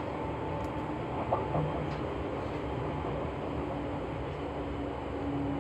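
Seibu New 2000 series electric train running, heard from inside the car: a steady rumble of wheels and running gear with faint steady tones over it.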